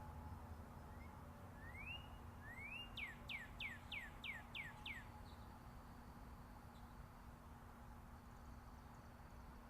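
A songbird sings one phrase: two rising whistled notes, then a run of seven quick down-slurred notes, about three a second. Under it runs the steady low rumble of distant interstate highway traffic.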